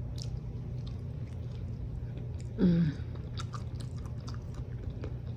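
Close-up chewing of a breakfast burrito, with many small wet smacks and clicks of the mouth. There is a brief hummed "mm" from the eater about two and a half seconds in.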